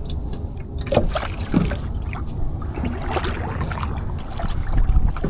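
Kayak paddle strokes: the blades dip in and drip water in short splashes every second or so, over a steady low rumble.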